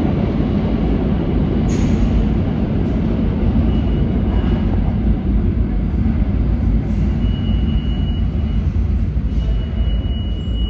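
New York City subway L train running through the station, a loud steady rumble of wheels on rail. A thin high whine comes and goes over it, about four seconds in and again near the end.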